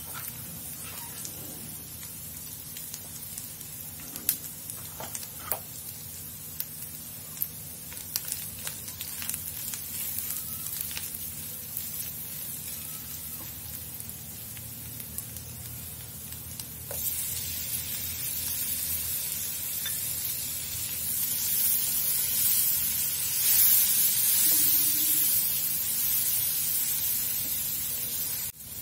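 Chopped vegetables frying in oil in a nonstick pan: a steady sizzle with scrapes and taps of the spatula as they are stirred. About halfway through the sizzle suddenly turns louder and hissier as chopped tomatoes go into the hot pan.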